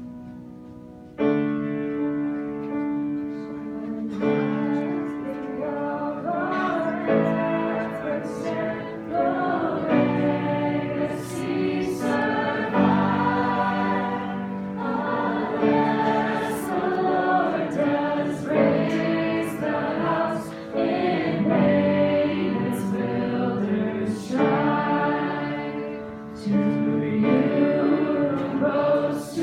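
A worship song sung by several voices together over sustained chords. The music enters suddenly about a second in and carries on.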